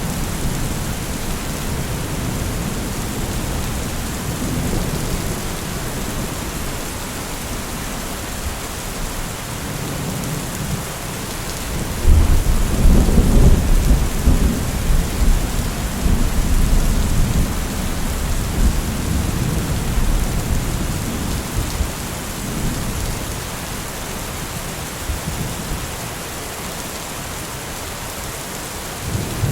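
Steady heavy rain, with a roll of thunder breaking in suddenly about twelve seconds in: a low rumble that stays loud for a few seconds and then slowly dies away under the rain.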